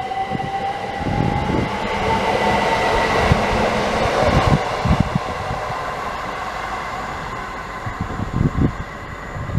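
Class 379 Electrostar electric multiple unit pulling away, its motor whine rising in pitch over the first couple of seconds as it accelerates. Wheel and rail noise builds to a peak a few seconds in, then slowly fades.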